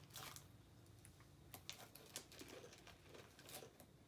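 Faint, scattered crunching and crackling of chili potato chips being bitten and handled from their bag.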